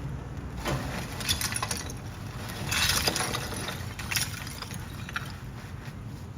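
Several short bursts of hard clattering and rattling, the loudest about three seconds in, over a low steady rumble.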